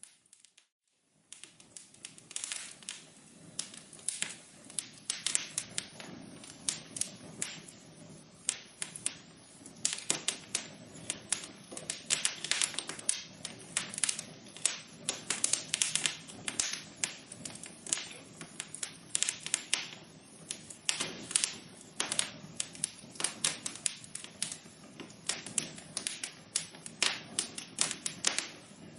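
Wood fire burning in a fireplace: dense, irregular crackling and popping over a soft low rush. The sound drops to near silence for about the first second, then the crackling starts up again.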